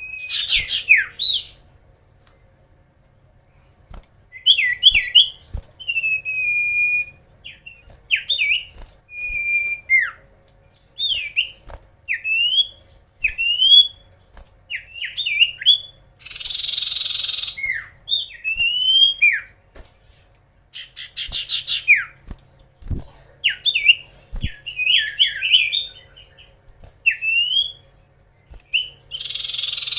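Common iora (cipoh) singing: a string of short, clear whistled notes, many sliding up or down, in phrases with short pauses. Twice, about 16 seconds in and again near the end, it gives a harsh rasping call.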